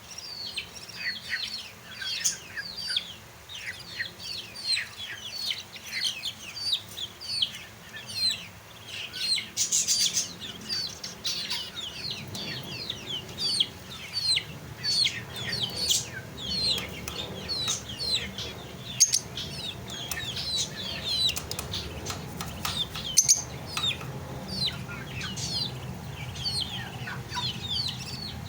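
A flock of caged lovebirds chattering: a continuous stream of short, sharp, shrill chirps from many birds at once, with some wing flapping and a few brief knocks. A low hum comes in about halfway through.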